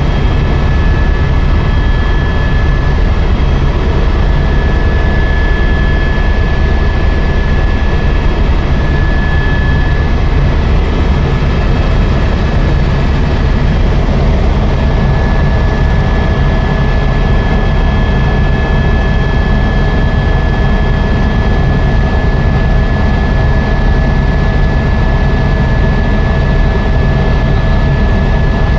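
Helicopter in flight: a steady high turbine whine over a dense, low engine and rotor drone, level and unchanging.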